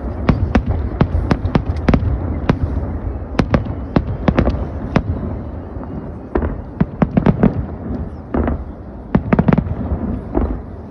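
Fireworks display going off continuously: a dense, irregular run of sharp shell bursts and crackles, several a second, over a steady rumble of deeper booms and their echoes, with quick clusters of cracks partway through.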